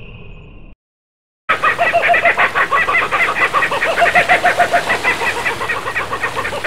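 Laughing kookaburra's laugh: a loud, fast, rolling cackle of rapidly repeated notes, starting about one and a half seconds in after a brief silence. Before it, a high steady whistle fades out under a second in.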